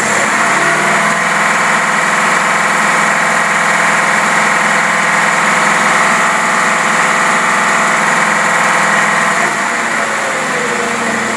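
Engine running on a Holley marine four-barrel carburetor, revved up to a steady higher speed and held there, then easing back down toward idle near the end. The mixture on this carburetor is running lean.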